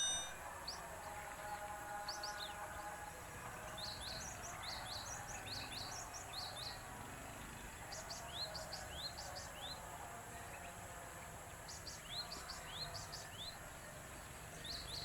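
Small birds giving many short, high, rising chirps in loose clusters, over a steady faint background hiss.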